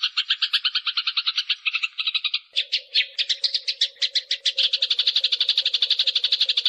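Eurasian tree sparrows in a fighting chatter: a rapid, unbroken run of harsh chirps, about ten a second. About two and a half seconds in the chatter changes and then grows faster and denser, with a faint steady low hum underneath.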